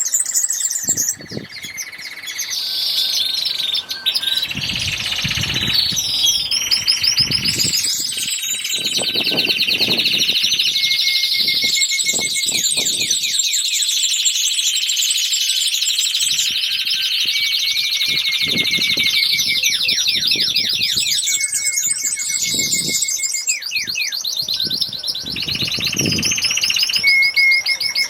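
Many small birds singing and chirping at once, a dense chorus of rapid trills and repeated high notes that overlap throughout.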